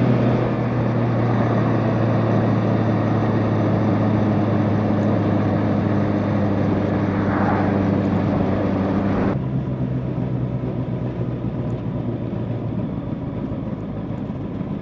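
Motorcycle engine running steadily at cruising speed under a rush of wind and road noise. About nine seconds in the sound shifts abruptly, becoming quieter and duller.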